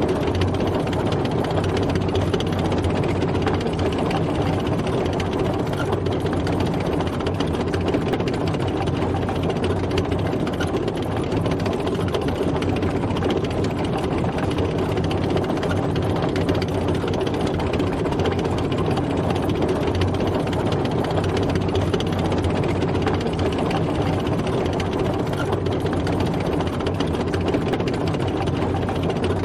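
Tank driving, its engine running at a steady pace with an even, unchanging mechanical rumble.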